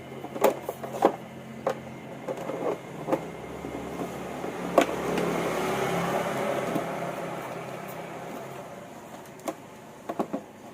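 Plastic clicks and knocks of an Imarflex electric fan being handled, over its steady motor hum, then the rush of its airflow swelling about four seconds in and slowly easing.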